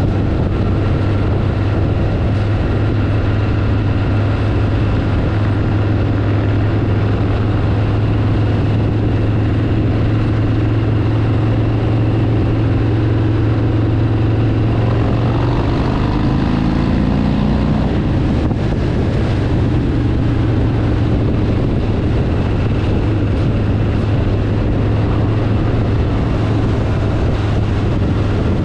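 Harley-Davidson V-twin motorcycle engine running steadily under way, with road noise; the engine's pitch shifts for a couple of seconds about halfway through.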